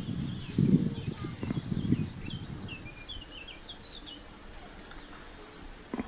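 Small birds chirping in a quick run of short high notes, with two brief, sharper high calls, one a little over a second in and a louder one about five seconds in. A low rustling noise fills the first two seconds, then fades.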